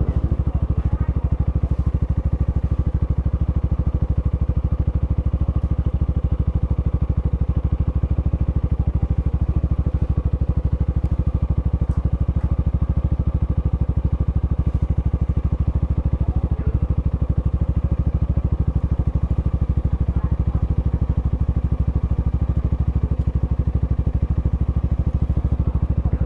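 Yamaha XMAX 300 scooter's single-cylinder engine running steadily, with an even low pulsing that holds the same throughout.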